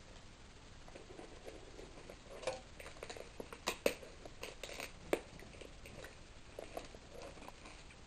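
Handling of a small cardboard box as it is opened: a scattered run of light taps, clicks and scrapes, with a few sharper clicks in the middle.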